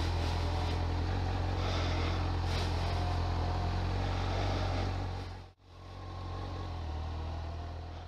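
Motorcycle engine running steadily at low speed, heard from the rider's own bike with some wind and road noise. The sound drops out abruptly for an instant about five and a half seconds in, then picks up again.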